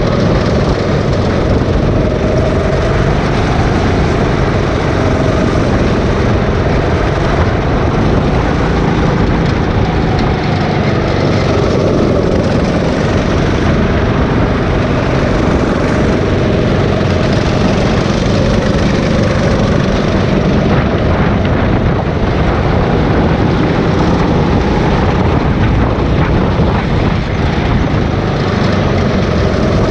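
Go-kart engine running hard at speed, its pitch wavering up and down as the throttle is worked through the corners.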